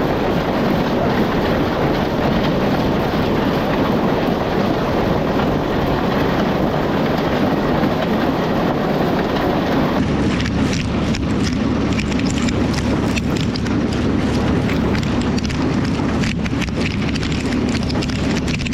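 Corn crib elevator conveyor running, carrying ear corn up into the crib, over a steady engine drone. About ten seconds in the sound changes to plainer rattling and clattering of the ears on the conveyor.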